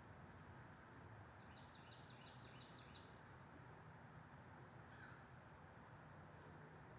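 Faint steady wind noise, with a small bird calling a quick run of about six short, high, falling notes about a second and a half in.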